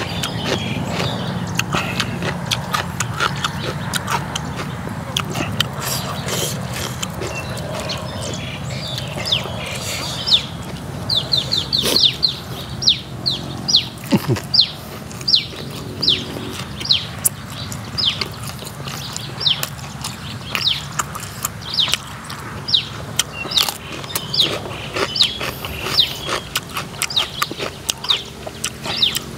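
A man chewing food close to the microphone: soft wet chewing at first, then from about eleven seconds in a steady run of crisp crunches, one or two a second, as he eats raw shrimp salad and fresh vegetables.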